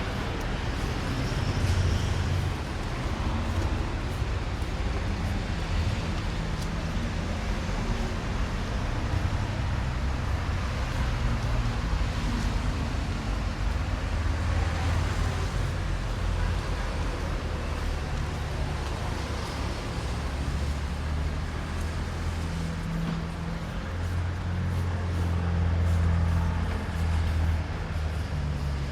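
Steady city road traffic, a continuous low engine rumble that swells and eases slowly without let-up.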